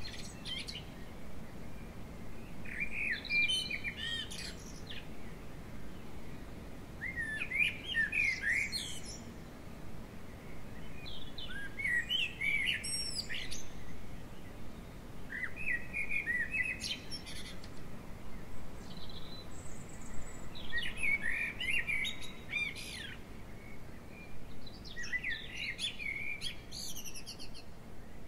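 A songbird singing short, rapid, warbled phrases, about seven of them, each a second or two long and a few seconds apart, over a faint steady low background rumble.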